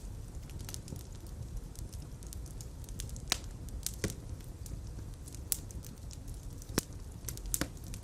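Fire in a fireplace crackling: a steady low rumble of flames with irregular sharp pops, a few louder ones in the second half.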